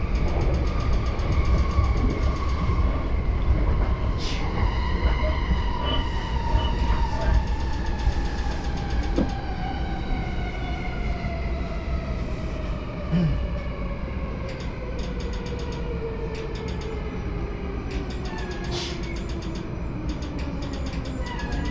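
Interior of a JR Yamanote Line electric train slowing down to stop at a station. Under the rumble of the wheels on the rails, the motor whine falls steadily in pitch as the train brakes, with a couple of sharp clicks.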